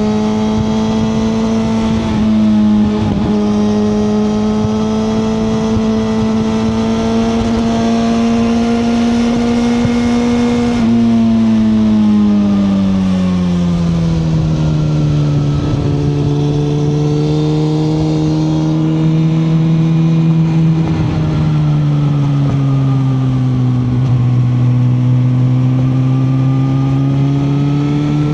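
2021 Suzuki GSX-R1000R's inline-four engine running under way at steady revs. Its note rises slightly for about ten seconds, then falls as the revs drop, dips lower again about three-quarters of the way through, and begins to climb near the end.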